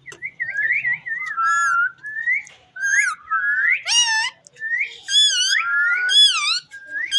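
Indian ringneck parrot whistling: a quick, continuous run of rising and falling whistled notes, some of them shrill with overtones.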